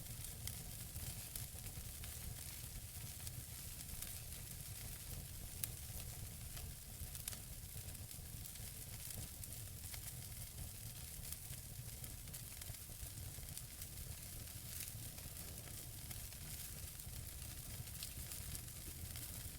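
Wood fire burning in a fireplace: logs crackling with frequent small irregular pops over a steady hiss and a low rumble, with a couple of sharper pops a little after five and seven seconds in.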